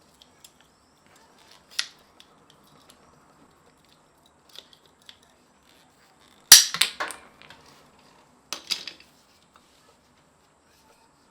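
Sharp hard clacks and knocks: a single one about two seconds in, a loud rattling cluster halfway through, and a shorter cluster near the end.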